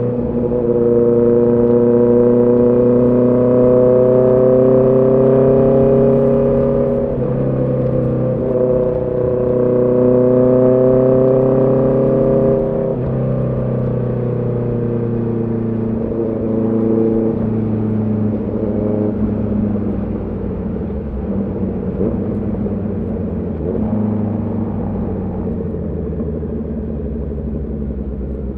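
Honda CB650R's inline-four engine pulling under throttle. The revs climb steadily, drop at a gear change about seven seconds in, and climb again. About thirteen seconds in the throttle is rolled off and the pitch falls, and the engine runs lower and quieter toward the end.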